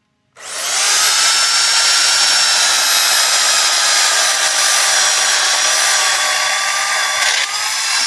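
WEN CP1014 10-amp corded electric chainsaw starting up about a third of a second in and running at full speed with a steady high whine. Near the end its pitch lifts briefly, then begins to fall as the motor winds down.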